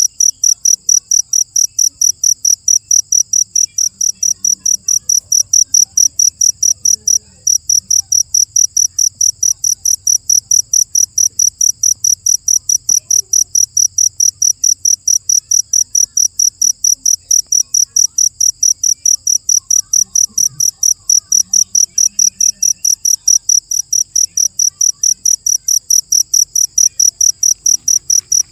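Cricket chirping: a loud, even train of high chirps, about three a second, with one brief break about seven seconds in.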